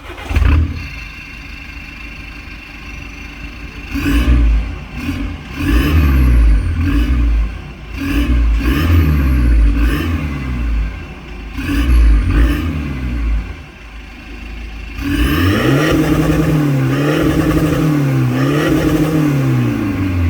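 Straight-piped Seat Leon FR 2.0 TDI four-cylinder turbo-diesel: a loud burst as it starts, a short stretch of idle, then a series of quick throttle blips. About three-quarters of the way through it is revved in longer swells that rise and fall several times.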